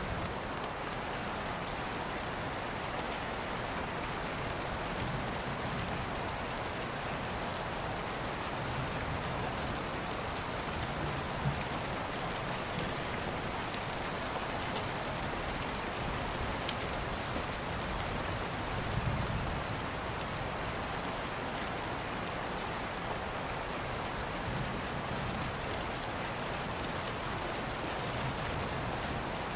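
Steady rain falling, with a few sharp crackles from an open fire and some soft low rumbles now and then.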